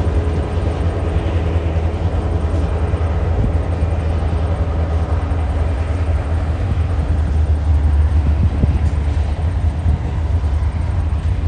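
TasRail 2051 diesel locomotive leading a freight train, its engine running with a steady, loud, low drone.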